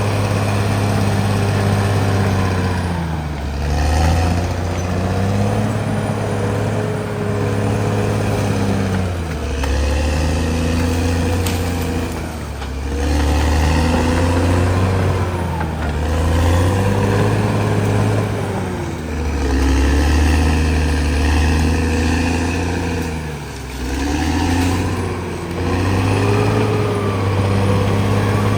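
Caterpillar D6R XL bulldozer's diesel engine working hard. Its pitch sags and recovers about six times as the engine is pulled down under load and picks up again while the dozer cuts earth.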